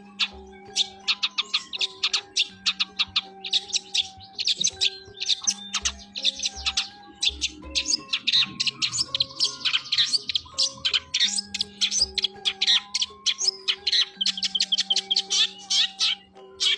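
Long-tailed shrike singing hard, a dense, fast run of sharp chirps and trills with only brief pauses, over steady background music.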